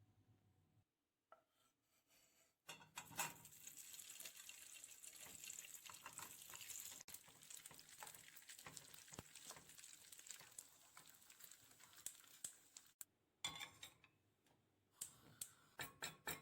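Food cooking in a pan: a faint, steady crackling hiss for about ten seconds, then a few separate clinks and knocks of kitchenware near the end.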